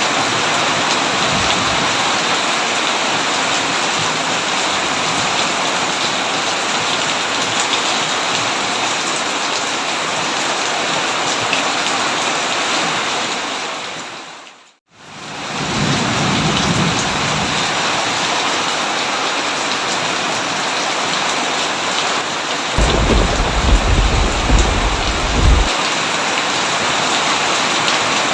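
Heavy rain falling in a dense, steady hiss, with thunder rumbling low, faintly soon after the middle and more strongly about three quarters of the way through. The rain fades out briefly near the middle and swells straight back.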